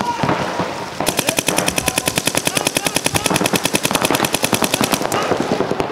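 Paintball marker firing in rapid, evenly spaced semi-automatic strings. It starts about a second in, runs for roughly four seconds and stops abruptly, after a few scattered pops at the start.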